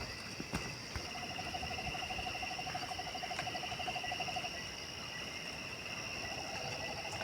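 Night animal chorus: insects shrilling steadily at two high pitches, with a long, evenly pulsed low trill from a frog or owl starting about a second in, lasting a few seconds and starting again near the end.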